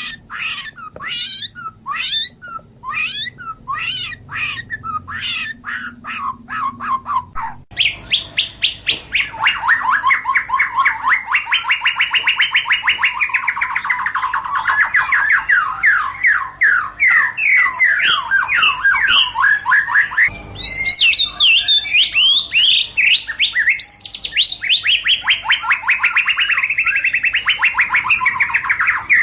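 White-rumped shama singing. At first it gives separate, varied notes. About eight seconds in, it changes abruptly to a fast, unbroken run of rapidly repeated chattering notes, with a brief break about twenty seconds in.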